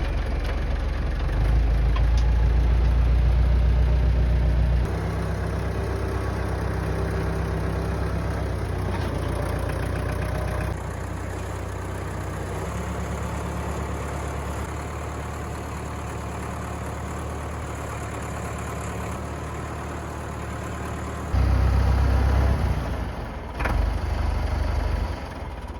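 Massey Ferguson farm tractor's engine running steadily, in several clips joined by abrupt cuts about 5, 11 and 21 seconds in, louder in the first and last clips.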